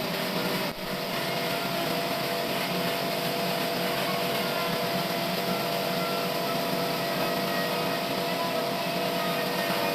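Sawmill machinery running steadily: an even mechanical noise with a constant hum, with a brief drop under a second in.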